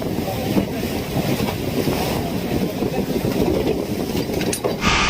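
Boat engine running steadily under way, with wind and water noise. Just before the end the sound turns abruptly to a brighter, louder hiss.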